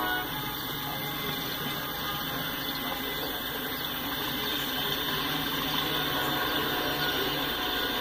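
Double-stack container well cars rolling past: a steady rush of steel wheels running on the rails, growing slightly louder about halfway through.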